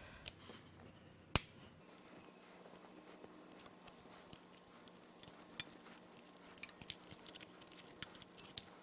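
Spider fuel injector assembly of a GM Vortec V8 being worked out of the intake: one sharp click about a second and a half in, then scattered faint clicks and taps of its plastic lines and metal parts being handled.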